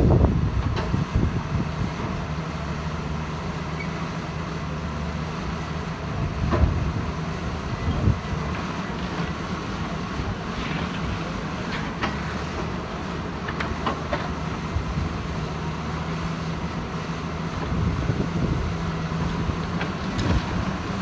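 Cat 320 hydraulic excavator's diesel engine running steadily, with occasional sharp metallic clanks.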